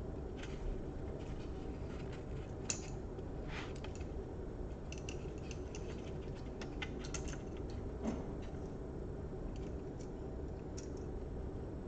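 Scattered light clicks and taps of small laptop parts being handled and fitted, over a steady low hum.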